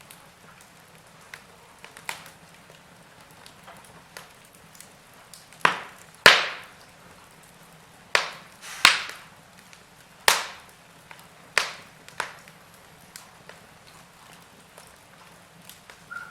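Burning logs in a fireplace crackling: sharp pops and snaps at irregular intervals over a faint steady hiss, with the loudest pops bunched between about five and twelve seconds in.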